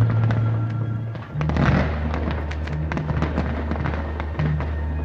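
Fireworks going off in a rapid crackle of sharp pops and bangs, with a dense burst about a second and a half in, over loud music with a deep bass line.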